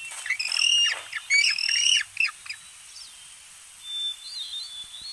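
Bird squawks: a quick run of sharp, high calls in the first two and a half seconds, then a few fainter chirps.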